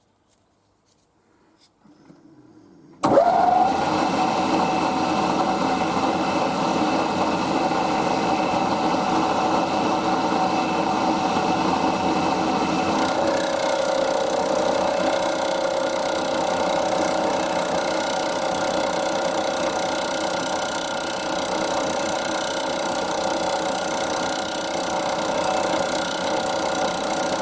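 Milling machine spindle starting up about three seconds in, its pitch briefly rising, then running steadily with a whine made of several steady tones. About ten seconds later a further steady tone joins and continues.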